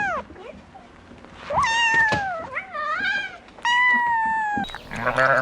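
A domestic cat meowing in long, drawn-out meows that fall in pitch at their ends, two of them plus the tail of another. Near the end it cuts to a sheep bleating with a quavering voice.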